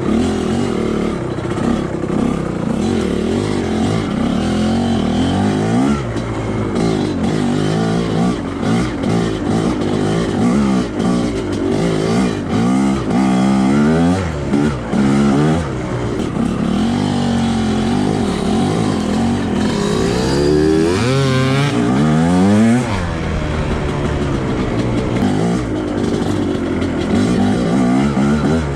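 Two-stroke dirt bike engine revving up and down again and again as it is ridden along a trail, its pitch climbing and dropping every second or two.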